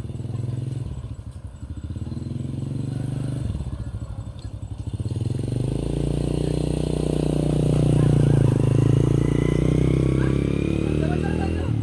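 An engine running nearby with a steady low pulsing note, growing louder about six seconds in and easing slightly near the end.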